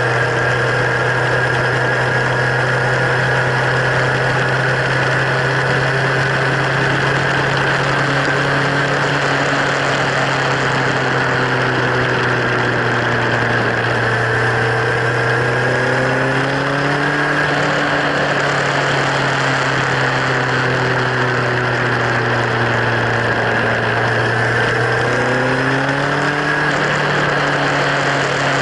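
Kawasaki Z1000's inline-four engine running steadily through LeoVince slip-on exhausts, its pitch rising slightly twice, about halfway through and near the end.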